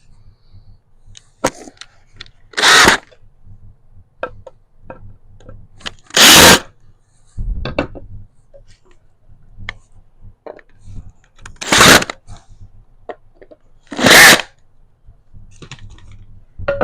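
A handheld power tool run in four short bursts of about half a second each, with small clicks and knocks between them.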